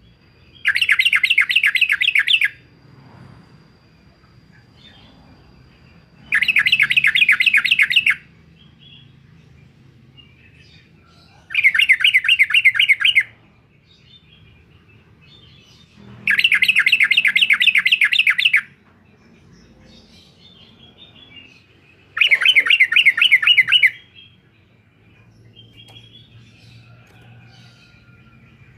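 Yellow-vented bulbul calling its rapid stuttering 'uklik-uklik' chatter in five bouts of about two seconds each, roughly every five seconds, with faint chirps between the bouts.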